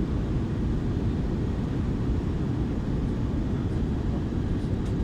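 Airliner cabin noise inside an Airbus A320-232 on approach: a steady low rumble of airflow and its IAE V2500 engines.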